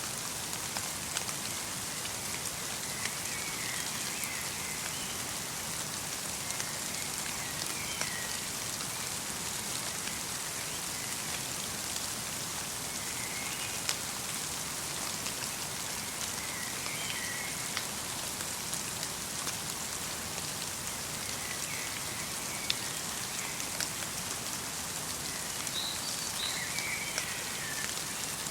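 Light rain falling steadily, with single drops ticking close by. A small bird gives brief faint calls every few seconds.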